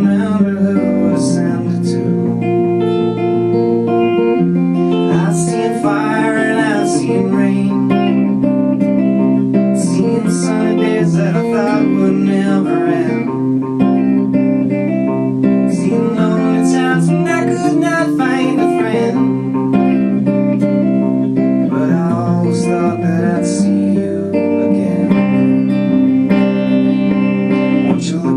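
Acoustic guitar playing a song accompaniment, with a voice singing over it at times.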